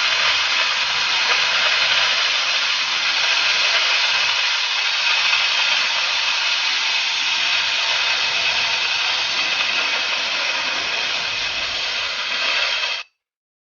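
Steady, loud hiss of the oxy-fuel cutting torch on a Huawei HK12 track-type gas cutting carriage, which cuts off suddenly near the end.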